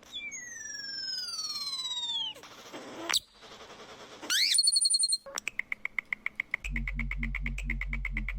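A bird-like call sliding down in pitch for about two seconds, followed by short electronic sweeps and a held high tone. From about halfway through, a fast repeating chirp runs at roughly five a second, and near the end a pulsing synth bass joins it as a beat.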